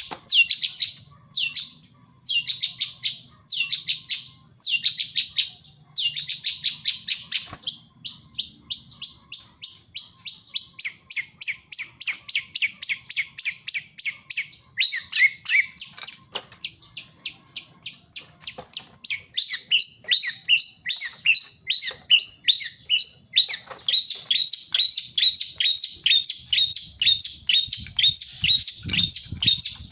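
A songbird in full, non-stop song: rapid high chattering notes, first in short phrases about a second apart, then from about eight seconds in running almost without a break as long fast trills.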